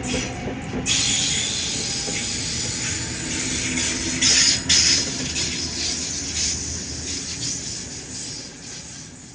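A train passing through the station: a loud, steady rushing hiss of wheels on rail, with two brief louder bursts about halfway through, fading away toward the end.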